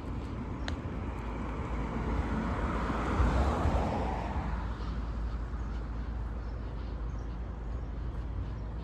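Steady low rumble of road traffic, with a vehicle passing that swells and fades about three seconds in.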